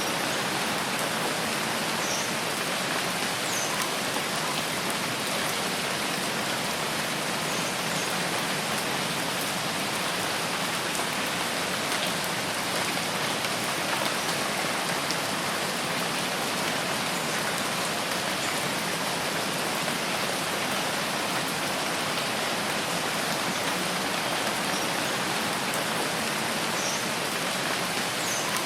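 Steady rain falling, an even hiss of water with no change in strength, with a few faint short high chirps in the background.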